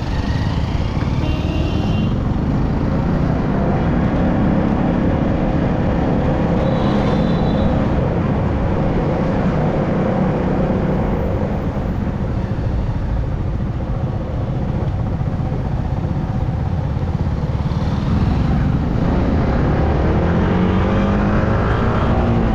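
Yamaha R15M sport motorcycle's single-cylinder engine running while riding, with steady wind and road noise on the microphone. The engine pitch rises near the end as the bike accelerates.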